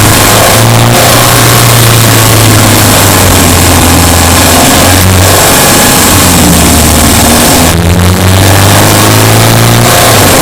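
Subaru Impreza Sport's flat-four boxer engine running under load while driving. It is loud and close, and its pitch steps and changes at three brief breaks, about a second in, midway and near the end.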